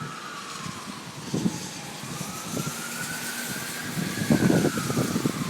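Emergency vehicle siren wailing, its pitch sliding slowly down and back up, with crackling noise over it.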